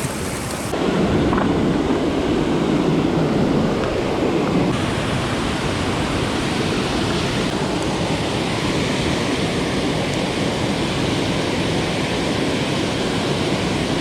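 Steady rushing of river water below a dam, with wind noise on the microphone; the sound jumps in level about a second in and shifts again near five seconds in.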